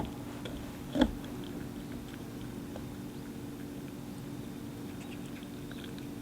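A cat eating wet food from a can, with faint small chewing and licking clicks. There is one brief louder sound about a second in, over a steady low hum.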